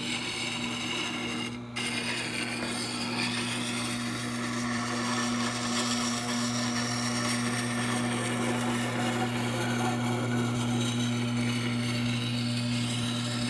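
Tormek SuperGrind 2000 wet-stone grinder running with a steady motor hum, while a steel bowl gouge is ground against the wet stone with a continuous scraping hiss. The grinding sound drops out briefly a couple of seconds in.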